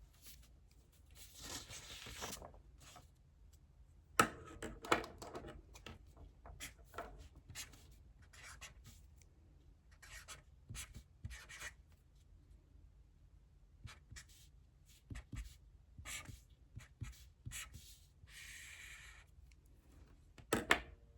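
Handwriting: a writing tool scratching across a surface in short strokes, with a couple of longer rubbing passes. Sharp taps about four seconds in and near the end are the loudest sounds.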